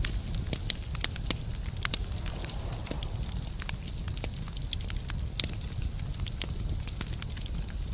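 Wood fire burning in a fireplace, logs crackling and popping in frequent, irregular sharp snaps over a steady low rumble of the flames.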